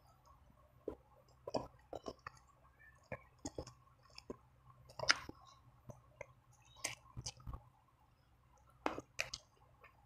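Eating sounds: irregular wet clicks, smacks and chewing as sauced fried chicken and spicy instant noodles are eaten by hand, the loudest smack about five seconds in.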